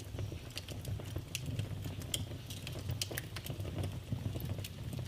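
Wood fire in a fireplace crackling, with sharp pops at irregular moments over a steady low rumble of the flames.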